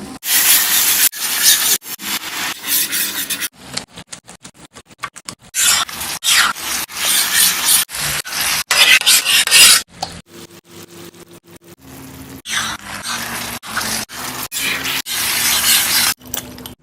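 Cooking in a pan: a utensil scraping and stirring food with a noisy sizzle, heard in short, abruptly cut segments.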